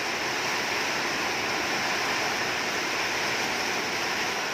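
Strong gusting wind with light rain: a steady rushing hiss.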